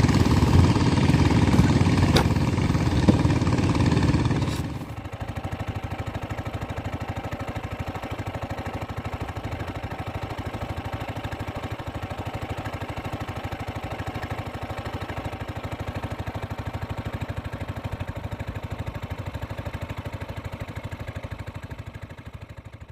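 A small engine running, loud and rough for about the first four and a half seconds, then quieter and steady, fading out at the very end.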